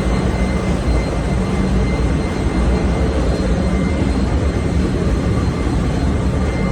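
A ship's machinery running: a steady loud roar, heaviest in the low end, with a faint high whine over it.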